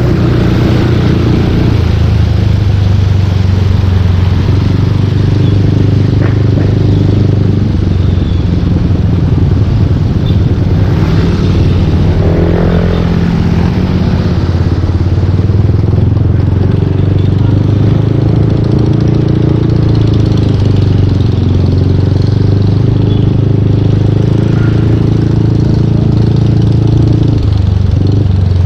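Yamaha Aerox 155 V2 scooter's single-cylinder engine running through a full Yoshimura aftermarket exhaust while riding, its pitch rising and falling with the throttle, over road and wind noise.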